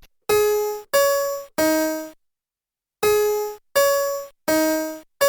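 2002 Playskool Magic Screen Learning Desk's sound chip playing a short melody in an electronic piano-like voice. The notes are separate and fade away, about two-thirds of a second apart: three of them, a brief pause, then four more.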